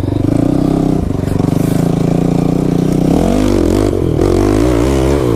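Kawasaki KFX 450R quad's single-cylinder four-stroke engine pulling hard in second gear, steady for about three seconds, then revving up and down in quick wobbles as the throttle is worked.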